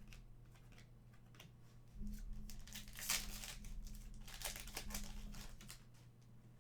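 Crinkling and tearing of a trading card pack's foil wrapper being handled and ripped open. It comes in rustling bursts for a few seconds, loudest about three seconds in.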